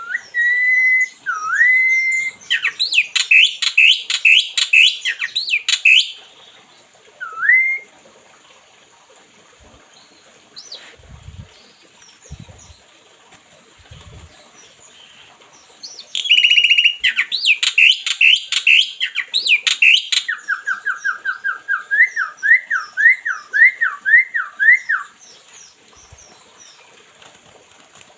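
A pet songbird singing two bursts of loud whistled song, with clear held whistles, gliding notes and fast trills. The second burst ends in a run of quick up-and-down whistled notes, about two or three a second.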